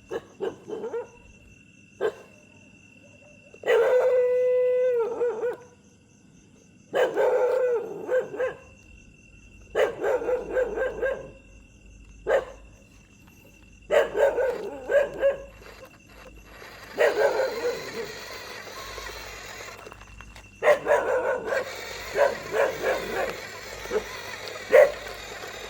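A dog's voice: one long held howl about four seconds in, then a string of shorter calls every few seconds, coming faster near the end.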